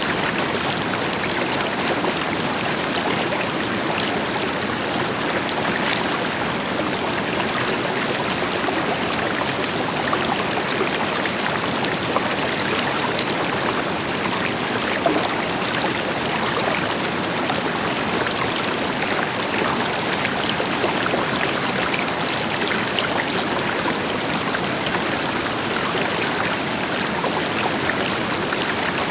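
River water flowing over rocks, a steady rushing and babbling with small splashes, with a distant waterfall adding a deeper rush beneath it.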